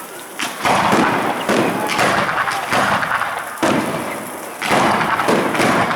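Fireworks going off, about four loud bangs, each trailing off over a second or so, with crowd voices faintly beneath.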